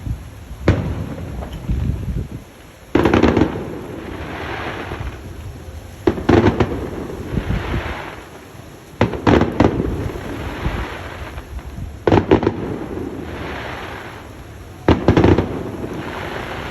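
Fireworks going off: a sharp boom about every three seconds, each followed by a few seconds of crackling.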